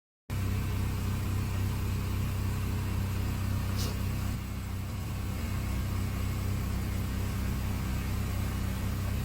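An engine running steadily, a low hum that holds the same pitch throughout, with a brief high hiss about four seconds in.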